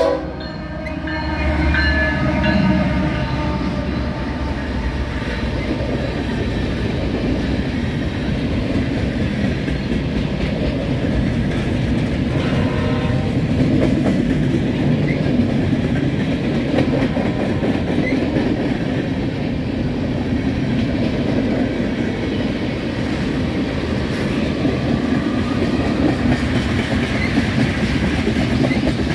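Norfolk Southern freight train passing close by: the lead diesel locomotive goes by at the start, then loaded freight cars, covered hoppers and tank cars, roll past with a steady rolling noise and clickety-clack of wheels over the rail joints.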